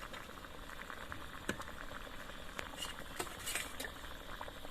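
Curry bubbling in a pan: a steady crackling haze with many small pops and a few sharper ones.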